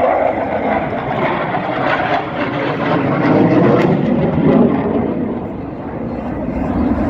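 Aircraft flying over, a loud rushing engine noise that swells about three to four seconds in and eases around six seconds.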